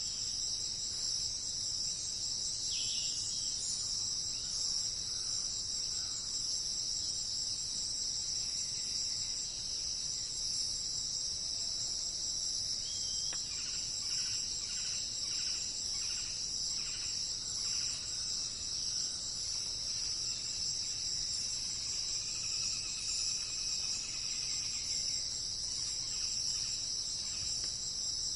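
Steady, high-pitched insect chorus trilling without a break, with faint bird calls over it: a short falling call early, a run of short repeated notes about two a second around halfway through, and a few more calls near the end.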